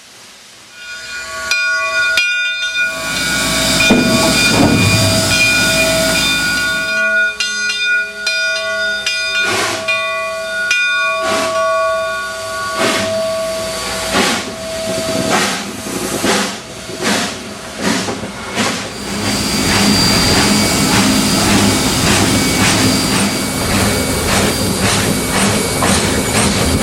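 Steam locomotive Southern Railway 2-8-0 No. 401 blowing a long whistle over a run of sharp exhaust chuffs. The whistle stops about fifteen seconds in, and steady steam hissing takes over for the rest.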